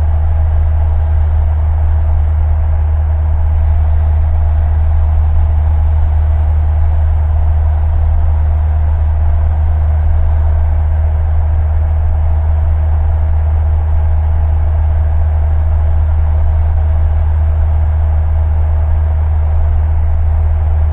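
Steady drone of a light single-engine Cessna's piston engine in the cockpit, with a strong low hum and no change in pitch or level.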